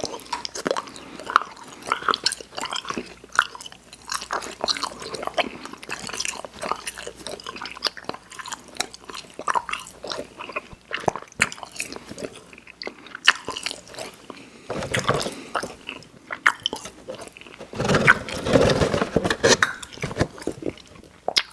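Close-miked chewing of soft, sour, chewy Airheads Xtremes candy: irregular wet mouth clicks and squelches. A louder, busier stretch of chewing comes about two thirds of the way in.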